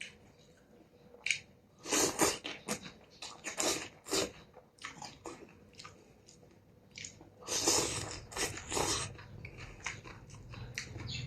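A person eating a bowl of noodle soup with beef, close to the microphone: irregular bursts of chewing and mouth noises, with the loudest clusters about two seconds in and again near the eight-second mark.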